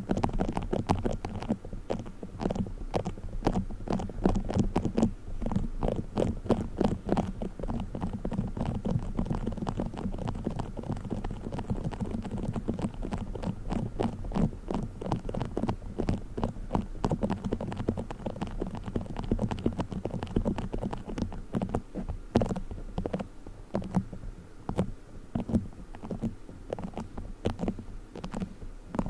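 Play foam being squeezed and kneaded close to the microphone: a continuous, irregular crackling of many tiny pops over a low squishing rumble.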